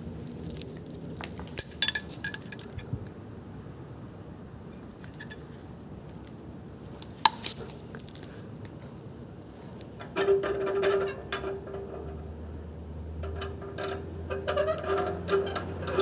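Light metallic clinks, a quick cluster about two seconds in and a single one near the middle, over a faint low hum. From about ten seconds in a steady pitched buzz with rapid clicking sets in.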